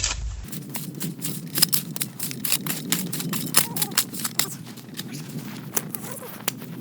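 Footsteps crunching in snow: a quick, irregular run of sharp crunches.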